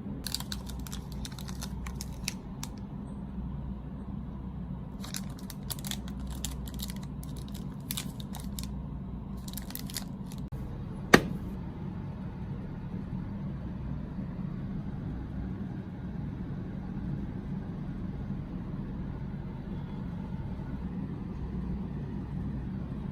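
Snack packaging being handled and torn open: crinkly crackling in short clusters through the first half, then one sharp click about 11 s in, over a steady low hum.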